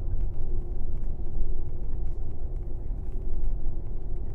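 Airport limousine coach driving: a steady low rumble of engine and road noise with a constant hum over it.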